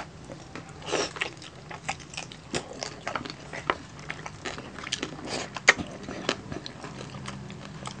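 Close-up crunching and chewing of crispy roasted pork belly skin (lechon belly): a quick, irregular run of sharp crackly crunches, the loudest a little before six seconds in, over a faint steady low hum.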